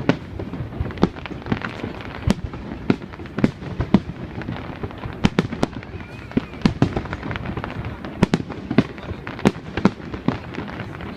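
Aerial fireworks bursting: an irregular run of sharp bangs and cracks, several a second at times, over a steady background hiss.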